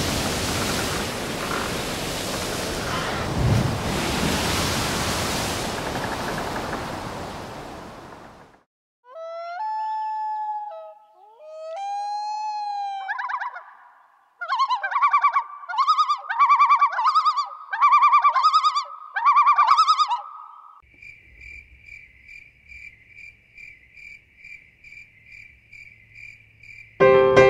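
Ocean surf and wind, fading out after about eight seconds. Then come calls that rise and fall in pitch, followed by about six evenly repeated trilled phrases, all typical of birdsong. Near the end there is a fainter, high, steadily pulsing call, and a piano enters at the very end.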